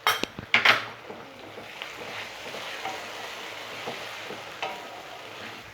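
Onion and tomato masala frying in a pan with a steady sizzle while it is stirred, a few sharp scrapes of the spatula against the pan in the first second. The tomato paste is being fried down (kashano) with the onion, ginger and garlic.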